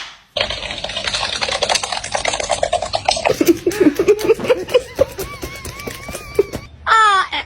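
A crackling, rustling noise for about three seconds, then a parrot's chattering and wavering whistle-like sounds, ending with a loud call that falls in pitch.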